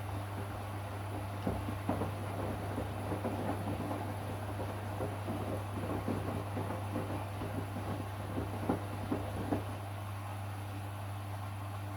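Washing machine running through its wash cycle: a steady low motor hum, with the drum turning and water and laundry sloshing and knocking irregularly from about a second and a half in until near the end.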